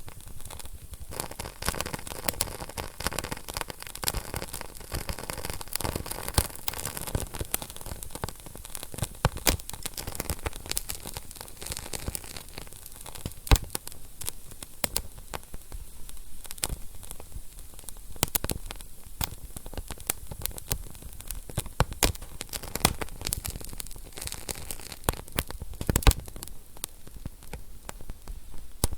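Wood fire burning in a fireplace, crackling steadily over a soft hiss, with irregular sharp pops; two louder pops stand out, about halfway through and near the end.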